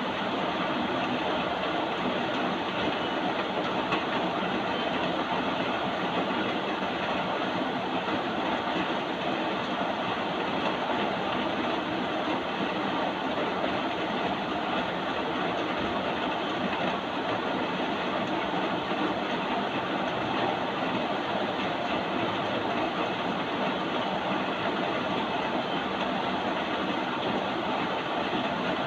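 Steady rain: a dense, even hiss that runs on without a break.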